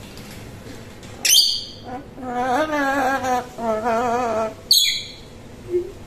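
Pet bird calling: two sharp, high calls that drop steeply in pitch, one about a second in and one near the end. Between them runs a wavering, warbled sung tone.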